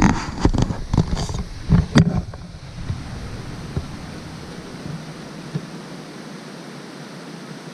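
Rushing water of a waterfall, a steady hiss; over it for the first two seconds or so come loud knocks and rumbles on the microphone.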